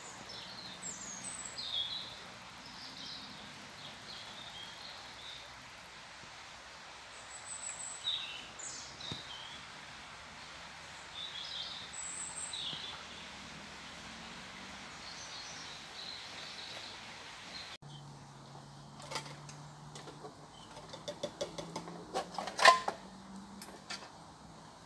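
Small woodland birds chirping now and then over a faint steady hiss. Toward the end the background changes abruptly, then comes a run of sharp clicks and knocks, one of them louder.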